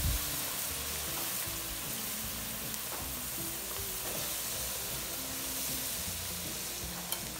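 Chopped vegetables sizzling in a pot of hot browned roux as they are stirred in, a steady hiss.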